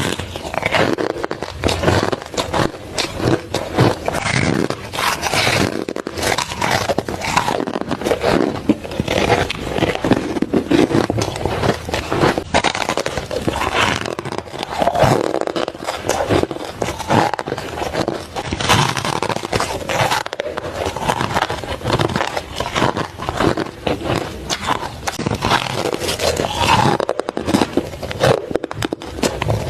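Close-up crunching of ice being bitten and chewed: a dense, continuous run of crisp crackling crunches.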